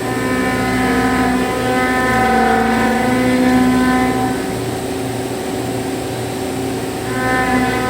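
A 25 mm milling cutter rough-milling aluminum alloy, giving a steady multi-tone whine while it is in the cut. The whine eases about halfway through and comes back near the end, over a constant machine hum.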